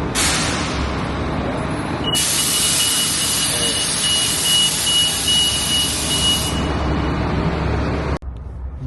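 Compressed air hissing from a shuttle bus's air system over its engine rumble: a short burst at first, then about two seconds in a loud steady hiss with a whistling tone that stops abruptly about four seconds later, typical of air brakes or air suspension venting.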